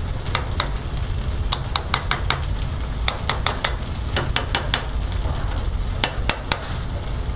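Shredded potatoes frying in butter and olive oil in a hot non-stick pan: a steady sizzle, with clusters of sharp clicks as a spoon adds more butter to the pan. A steady low rumble runs underneath.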